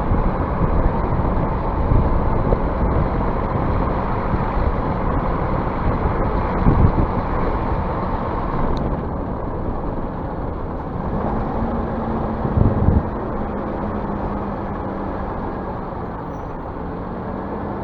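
Scania bus running: steady engine and road noise, with two short thumps about seven and thirteen seconds in, and a steady engine hum from about eleven seconds on.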